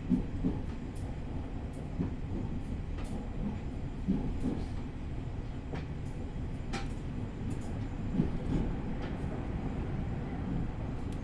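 Running noise heard inside an E501 series electric train moving slowly under a strong-wind speed restriction: a steady low rumble with irregular knocks and clunks from the wheels on the track.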